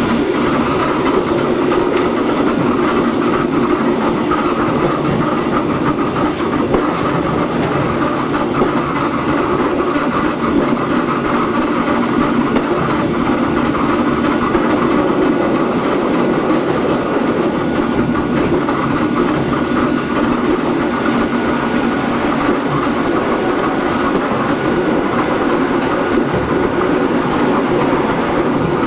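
Hakone Tozan Railway Moha 1 type car No.106 under way, with nose-suspended SE121-A traction motors and gearing running and wheels clicking over rail joints at a steady level.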